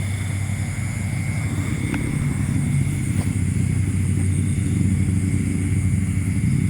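Low, steady motor-vehicle engine hum, slowly growing louder, with a faint high steady whine above it.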